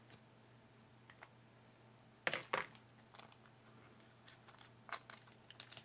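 Faint clicks and light rustling of small jewelry pieces and their packaging being handled, with two louder clicks close together about two and a half seconds in.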